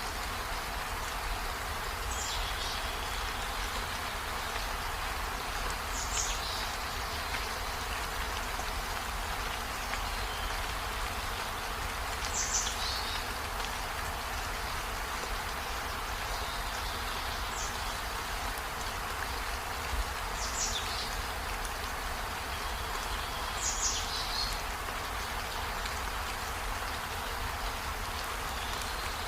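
Steady rainfall, an even hiss, with a short high chirp that slides downward, repeating every few seconds.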